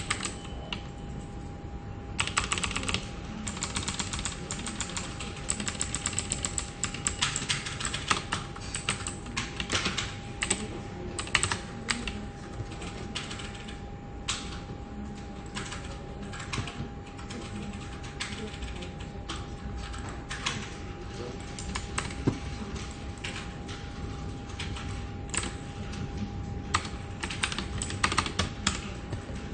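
Computer keyboard typing: quick runs of key clicks, densest in the first ten seconds or so, then sparser, with a steady faint hum underneath.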